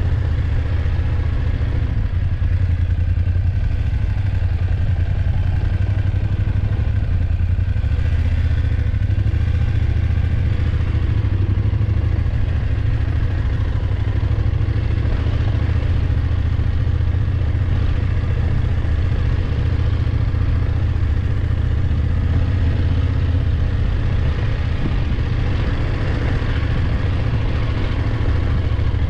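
BMW F850GS motorcycle's parallel-twin engine running at a steady pace while riding, with a constant low rumble.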